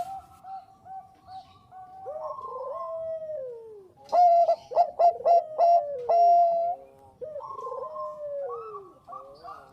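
Bangkok perkutut (zebra dove) cooing in repeated phrases of quick notes and held tones, some falling in pitch. Fainter calls come first, a loud rapid phrase starts about four seconds in, and fainter calls follow.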